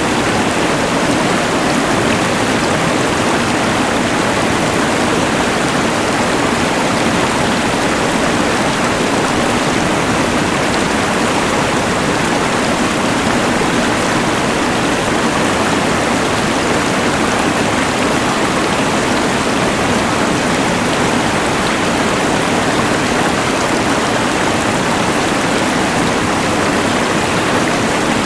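Rushing mountain river mixed with the hiss of a LectroFan white noise machine: one even, unbroken wash of noise with no changes.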